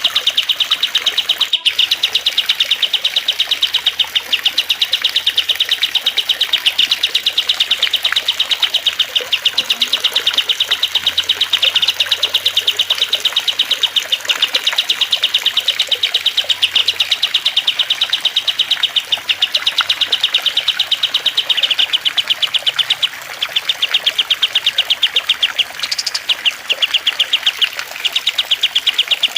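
Cililin, kastem and lovebird song mixed into a birdsong-training track: a fast, unbroken run of high chirps, many to the second, with a few short breaks near the end. A single sharp click about a second and a half in.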